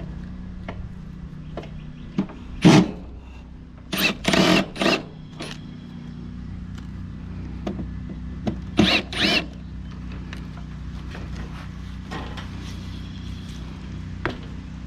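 A power drill run in several short bursts, a single one about two and a half seconds in, a quick cluster around four to five seconds, and a pair near nine seconds, over a steady low hum.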